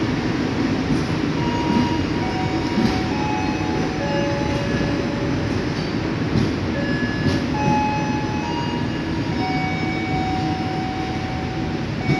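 Indonesian KAI passenger coaches rolling slowly out of the station: a steady rumble of wheels on the rails, with short, scattered squealing tones from the wheels.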